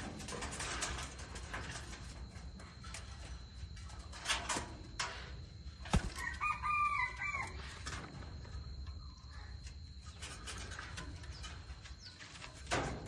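A rooster crowing once in the background about six seconds in, a wavering call about a second long. Around it, a steady thin high tone and scattered short rustles and clicks.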